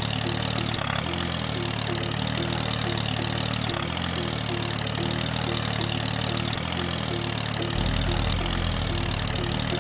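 An engine idling steadily with a regular chugging pulse of about three to four beats a second; a deeper low note joins near the end.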